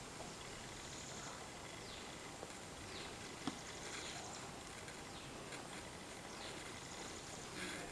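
Faint outdoor ambience with scattered short, falling bird chirps and a single sharp click about three and a half seconds in.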